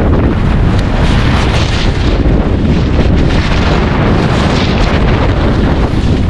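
Heavy wind buffeting a microphone during a fast ski run: a loud, steady rumble with a rushing hiss above it.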